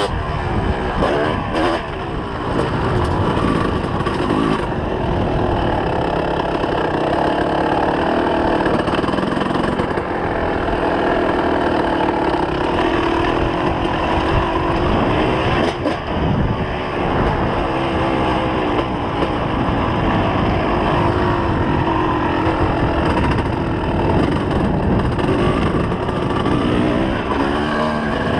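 2004 Kawasaki KX250's two-stroke single-cylinder engine running hard under riding, its revs rising and falling again and again as the throttle is opened and closed.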